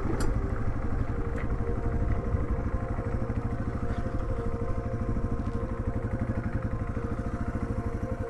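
Yamaha TW200's single-cylinder four-stroke engine running steadily at low revs, with a fast, even beat.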